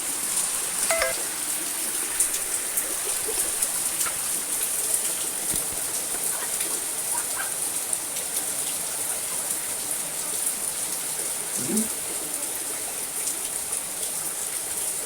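Rain falling steadily on a house roof: an even hiss with many small drop ticks scattered through it.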